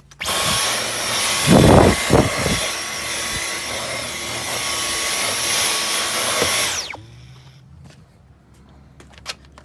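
Dyson V11 cordless vacuum running with a steady high whine, with a few heavy knocks and rubbing from the cleaner head against a surface about two seconds in. About two-thirds of the way through it is switched off and the whine falls away as the motor spins down.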